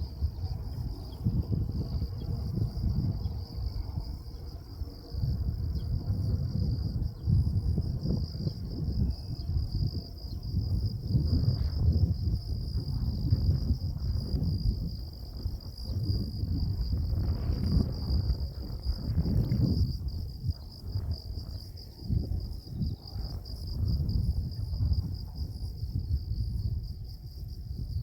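A steady, high-pitched insect chorus trilling without a break, under a louder, gusty low rumble of wind buffeting the microphone. The rumble swells and fades, with stronger gusts in the middle.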